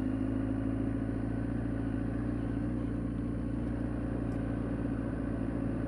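Inline-four motorcycle engine running steadily at low, even speed while cruising, with no revving or gear changes.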